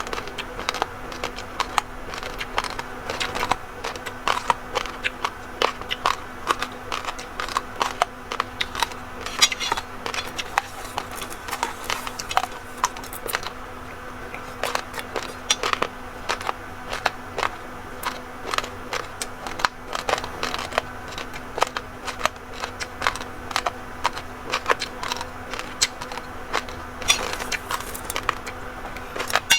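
Raw, uncooked rice grains being crunched and chewed: a dense, irregular run of sharp crunching crackles.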